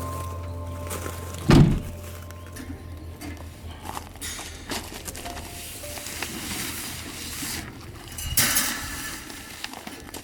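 Background music ends, then a single heavy thump about a second and a half in, followed by scattered light knocks and handling noise.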